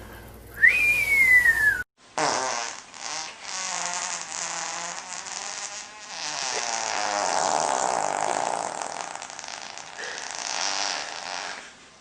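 Animal farts: first a short high squeak that falls in pitch over about a second. After a cut comes one long, drawn-out fart of nearly ten seconds that swells in the middle and fades near the end.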